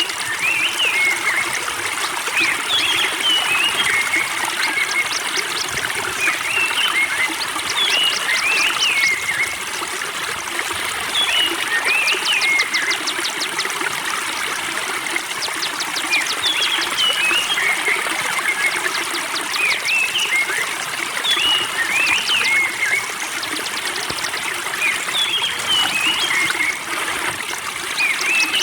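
Spring water trickling steadily while a songbird sings short chirping phrases every second or two, some with fast ticking trills.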